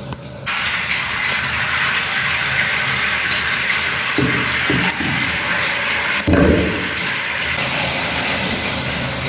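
Hot water running from a tap into a bathtub being filled for a bubble bath, a steady rush that grows louder about half a second in. There is one low thump a little after six seconds.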